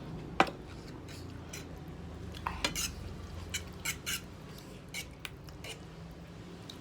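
Utensils clicking and tapping against a bowl of jajangmyeon noodles in an irregular string. The sharpest click comes about half a second in.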